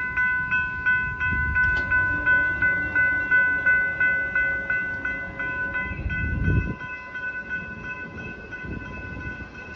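Electronic railroad crossing bells (U&SS and GS Type 3 e-bells) ringing steadily, about three strokes a second, while the gates rise after a light rail train has passed. The bells stop near the end. There is a low rumble about six seconds in.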